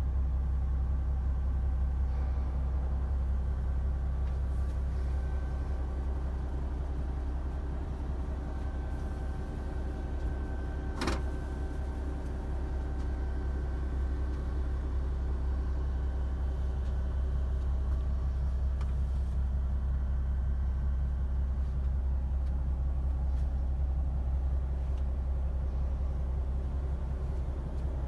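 Volvo FH 460's 13-litre six-cylinder diesel engine idling steadily, a low rumble heard from inside the truck's cab. A single sharp click about eleven seconds in.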